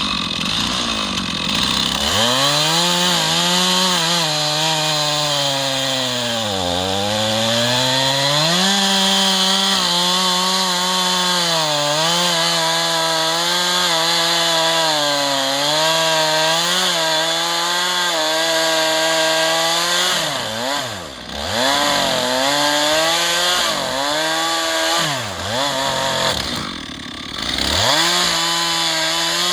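Gas chainsaw running hard, cutting through the butt end of a spruce log. The engine pitch sags under load about seven seconds in. Near the end the saw drops toward idle and revs back up several times.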